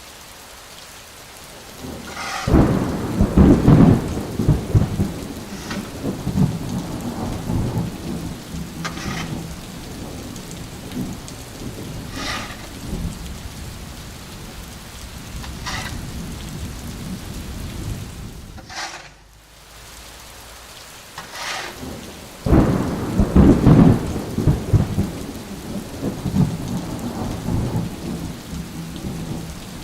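Heavy rain falling steadily, with two long rolls of thunder: one building about two seconds in, the other about twenty-two seconds in.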